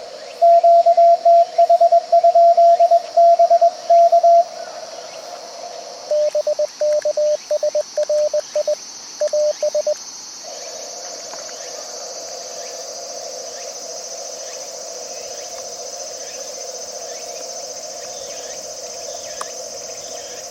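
Morse code over a shortwave transceiver: a loud keyed tone sends for about four seconds, then after a short gap a weaker, slightly lower-pitched Morse signal comes back for about four seconds, leaving only the receiver's narrow-filtered band hiss. Insects chirr steadily in the background.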